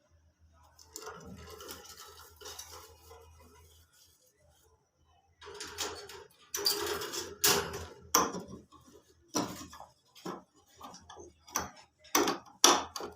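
Irregular clinking and scraping, like hard objects knocking together, soft at first and then a run of sharp, loud knocks through the second half.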